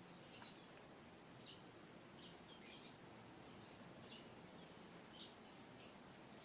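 Faint, short, high-pitched bird chirps, about eight of them at irregular intervals, over a quiet outdoor hiss.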